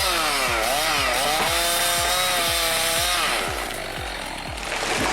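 Two-stroke chainsaw running at high revs, its pitch dipping twice under load in the cut and recovering, then fading out about three and a half seconds in. Background music with a steady beat runs throughout.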